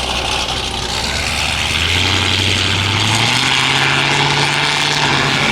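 A car engine running under a steady drone of road and wind noise, as if while driving. Its pitch steps up about two seconds in and again a little over three seconds in.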